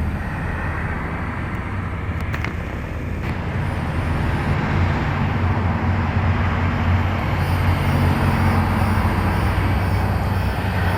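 A steady engine rumble with a low hum, slowly growing louder.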